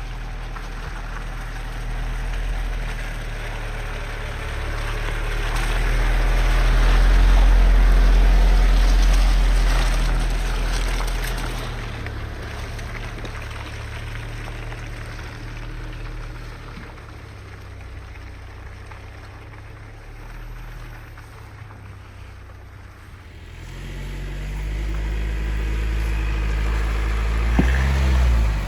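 A Mitsubishi L200 Triton 4x4 pickup driving, its engine rumbling. The engine note swells about seven seconds in, eases off, then builds again near the end.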